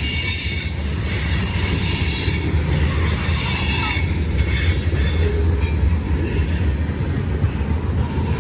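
CSX freight train cars rolling past with a steady low rumble and high-pitched steel wheel squeal. Two short knocks sound about four and five and a half seconds in.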